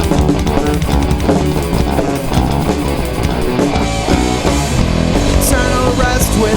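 Instrumental rock passage with distorted electric guitar, bass and drum kit. A higher line with sliding pitch comes in near the end.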